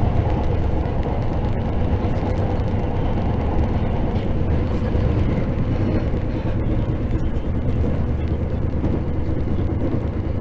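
Steady interior running noise of a JR 681 series electric limited express train at speed: an even low rumble of wheels on rail that holds at one level throughout.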